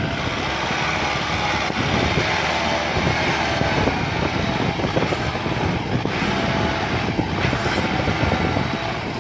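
Kubota M6040 tractor's four-cylinder diesel engine running steadily at working speed, with irregular knocks and crackles throughout; the level drops slightly near the end.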